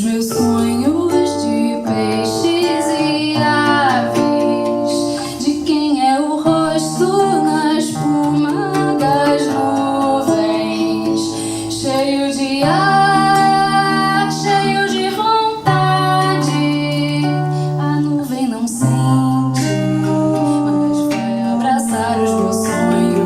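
Live acoustic band music: plucked guitar chords under a gliding melodic lead line with no sung words.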